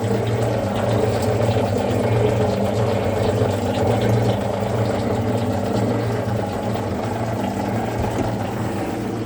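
Zocca 500 metal shaper running steadily under power, during a run-in after its ram adjustment.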